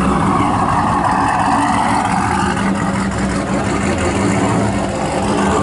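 Motor vehicle engine running close by, a steady low rumble.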